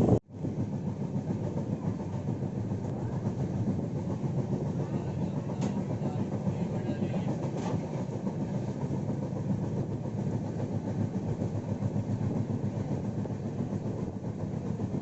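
Passenger train running on the rails: a steady noise of wheels on track, with two faint clicks midway.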